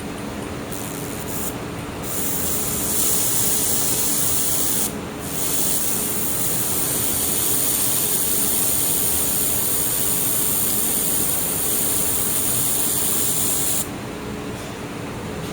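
Air-cooled handheld laser welder running a bead with hand-fed filler rod: a steady hiss of gas and weld sizzle starts about two seconds in, breaks off briefly around the fifth second, and cuts off sharply near the end. Under it runs a steady hum.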